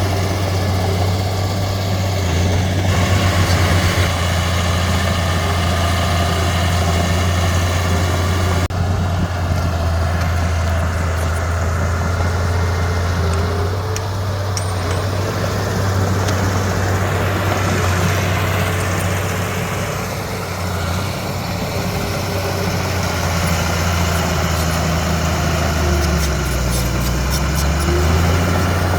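Heavy diesel engine of earthmoving machinery running steadily, its pitch dipping briefly and coming back up near the end.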